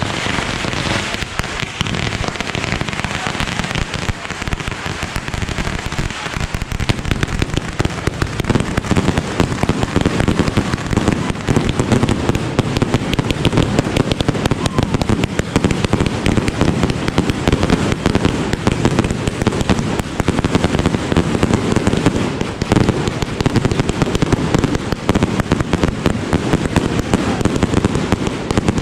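Fireworks going off in a rapid, unbroken barrage of bangs, many a second, growing louder and deeper about seven seconds in.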